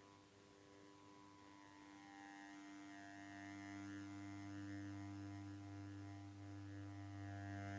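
Suzuki Sirius S48B bass chromatic harmonica holding one low note through a Boss MD500 modulation effect, its upper tones sweeping up and down over and over; the note swells slowly louder.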